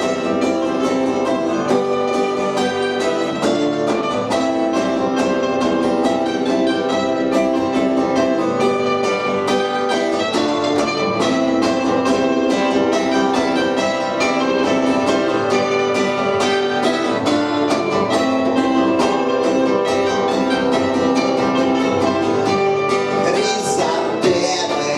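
A live band playing a song, led by guitar.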